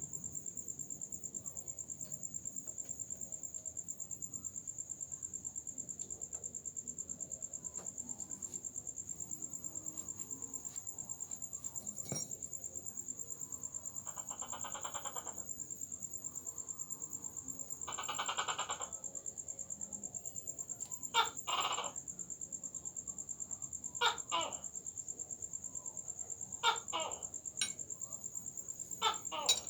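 Steady, high-pitched, rapidly pulsing insect trill. Partway through there are two short rasping bursts, followed by several short, sharp chirps near the end.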